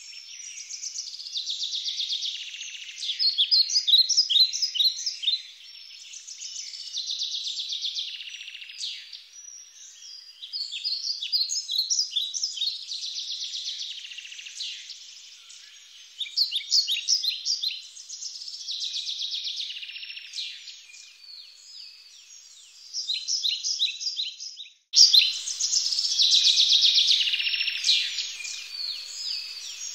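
A songbird singing, repeating a high, buzzy, trilling phrase of a few seconds over and over with short pauses between.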